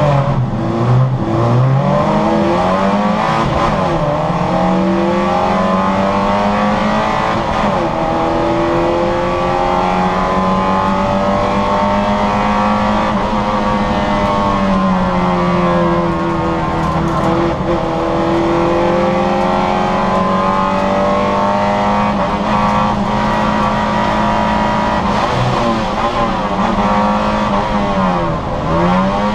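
Citroën Saxo VTR's 1.6-litre four-cylinder engine driven hard on a race track. The engine note climbs through the revs and drops away several times as it lifts off and changes gear.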